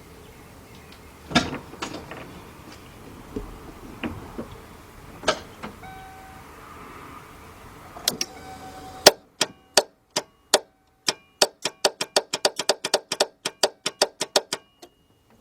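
Starter solenoid of a 1991 Mercury Cougar with the 3.8 V6 clicking as the key is turned to start, without the engine cranking: the click-but-no-start fault. A few scattered knocks come first, then about halfway through a fast run of sharp clicks that speeds up to several a second before stopping.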